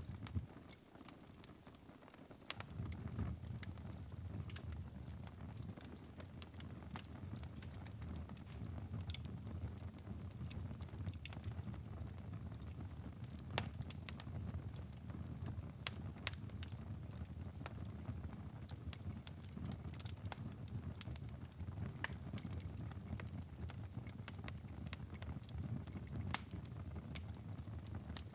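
Wood fire crackling in a fireplace: a steady low rumble of burning with irregular sharp pops and snaps throughout. The low rumble drops away briefly about a second in and returns at around two and a half seconds.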